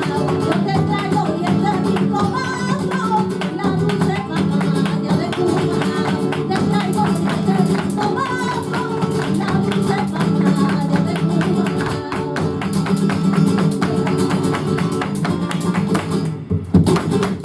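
Flamenco guajira played on guitar, with dense rapid percussive strikes and a wavering voice line at times. The music breaks off about a second before the end.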